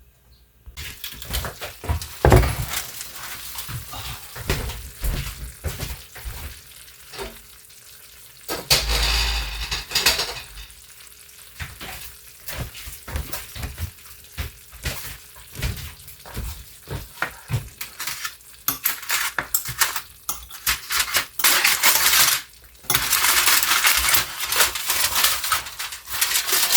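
Kitchen cooking sounds: metal utensils clinking and scraping against pots and pans in many short knocks, with a spell of hissing about nine seconds in and a longer, louder one from about twenty-two seconds on.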